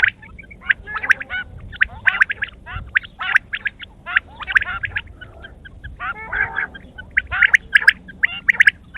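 Quail calling: many short, quick chattering and gurgling calls in irregular clusters, overlapping as from several birds, busiest near the end.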